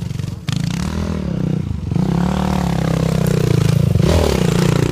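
Enduro motorcycle engine running close by, its revs rising and falling several times.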